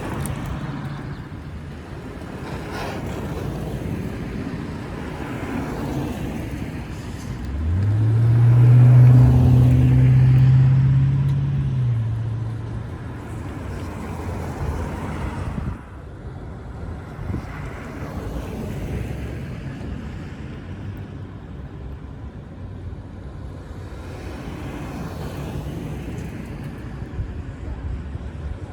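A custom car with an aftermarket exhaust drives past with a loud, deep exhaust drone. About seven seconds in its pitch rises as it accelerates, then holds steady, and it fades out about five seconds later. Before and after, other cars can be heard as a steady background of traffic noise.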